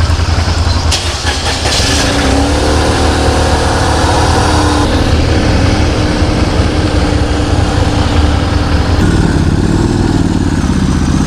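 Motorcycle engine running as the bike rides slowly onto a ferry, heard close up from the bike, its note rising and falling with the throttle.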